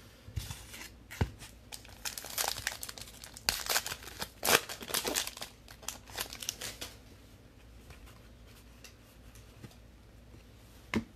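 A foil trading-card pack wrapper being torn open and crinkled, with dense crackling for several seconds that then dies down to light handling and a single click near the end.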